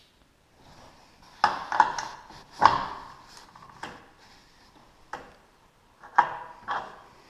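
Irregular metal clanks and clinks, about seven sharp knocks that ring briefly, from hand tools and metal parts being handled while working on a loose garage door opener drive chain.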